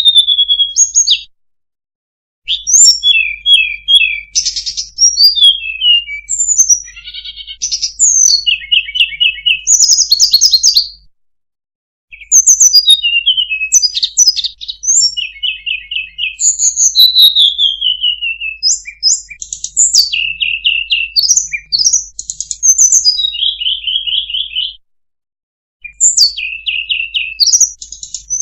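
Bird-lure recording of sulingan (tledekan) calls: rapid high chirps, short trills and falling whistles in quick phrases, broken by three brief silences.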